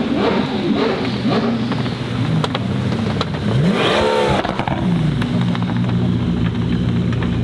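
A high-performance car engine revving hard in quick rises and falls, with one sharp rev about four seconds in, then holding a steady lower note.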